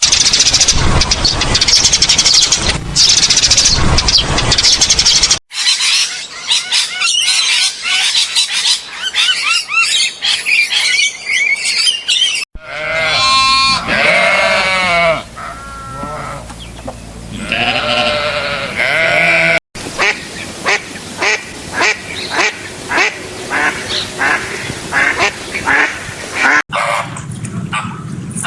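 A run of separate animal-call recordings cut one after another, mostly birds calling: a loud noisy stretch first, then many short chirps, then wavering pitched calls, then calls repeated about twice a second.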